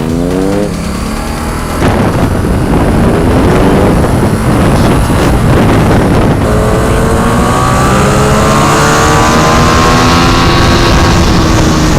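Ducati XDiavel's 1262 cc L-twin engine accelerating hard, its revs climbing through the gears with a shift about six seconds in, as the bike speeds up to around 130. Wind rushes over the microphone.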